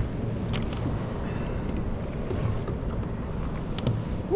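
Wind rumbling on the microphone and ocean water sloshing around a kayak, with a few faint clicks.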